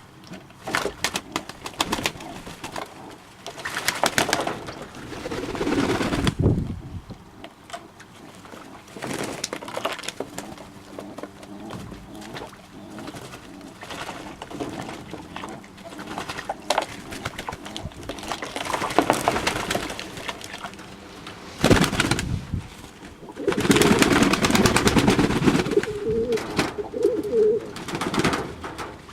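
Domestic pigeons cooing, loudest and longest near the end, among scattered sharp clicks and rustling.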